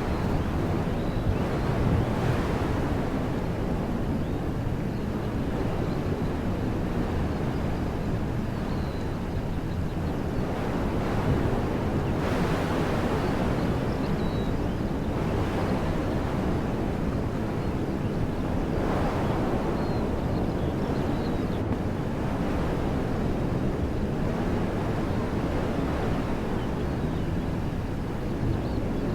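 Wind blowing through trees, a steady rushing that swells in gusts several times, with a low rumble of wind buffeting the microphone.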